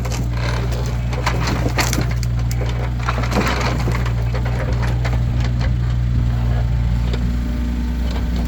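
Split firewood logs knocking and clattering against one another as they are handled and stacked, with sharp knocks coming in clusters. Underneath is a steady low engine hum.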